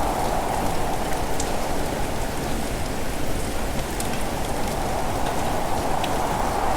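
Steady heavy rain falling on surfaces, with scattered individual drop ticks over a dense low wash.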